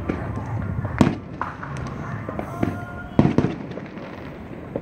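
Fireworks exploding across the city: a steady low rumble of many far-off bursts, with sharp bangs about a second in and again just past three seconds, and smaller pops in between.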